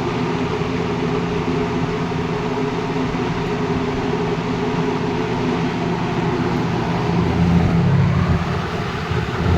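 Lakewood-made JC Penney model 9710 two-speed box fan running on high speed: a steady rush of air with the motor's hum underneath.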